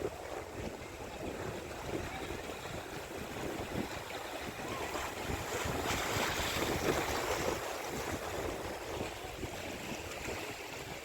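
Sea waves washing on the shore with wind buffeting the microphone, the surf swelling louder about six seconds in.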